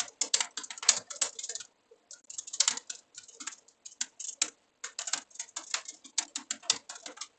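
Computer keyboard typing: quick, irregular runs of key clicks broken by short pauses.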